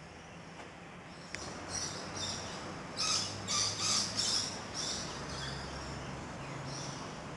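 Wild birds giving a run of short, high-pitched calls, loudest and closest together about three to four and a half seconds in. A single sharp click a little over a second in.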